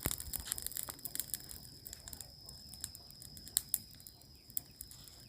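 Freshly lit wood bonfire crackling, with irregular sharp snaps scattered through, over a steady faint high-pitched tone.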